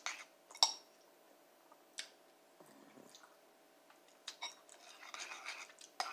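Close-up eating sounds: a sharp mouth click about half a second in, a softer one a second and a half later, then a run of chewing and lip smacks in the last two seconds.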